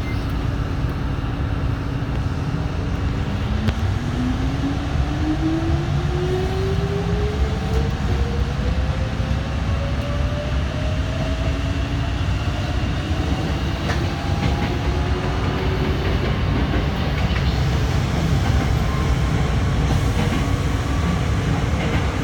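Hankyu electric train running and picking up speed: steady low rumble of wheels on rail, with the motor whine rising steadily in pitch over about ten seconds, and a second, fainter rising whine near the end.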